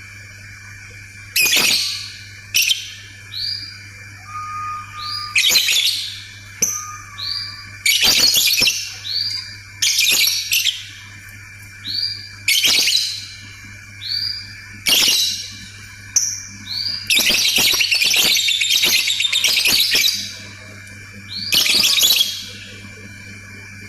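Lovebird calling: loud short chirps about every two seconds with soft rising tweets in between, then a run of rapid chatter about three seconds long starting near the middle, the long 'ngekek' cackle that lovebird keepers prize.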